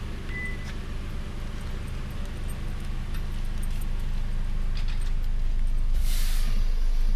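Car engine running: a low, steady hum that grows slowly louder, with a short hiss about six seconds in.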